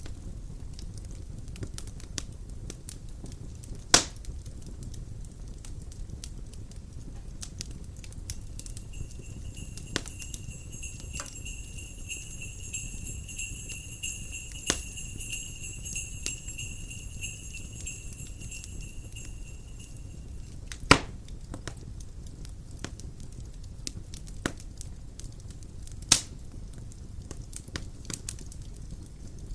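Wood fire crackling, with a few sharp pops over a low steady rumble of wind. Jingle bells ring steadily from about nine seconds in until about twenty seconds in.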